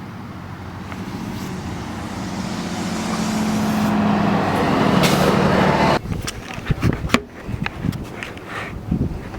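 A road vehicle driving past, its noise growing steadily louder for about six seconds before cutting off abruptly. After that come scattered crackles and clicks.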